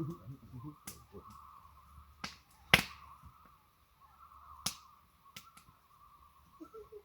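A few sharp clicks and knocks at irregular intervals, the loudest a little before the middle, over a faint steady high hum.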